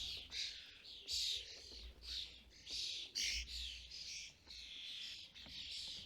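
Common starling fledglings giving harsh, rasping begging calls, repeated in quick succession, as parents bring food to the feeder.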